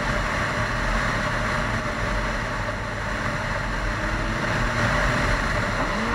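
Steady engine and road noise of a car heard from inside its cabin, an even rumble without distinct events.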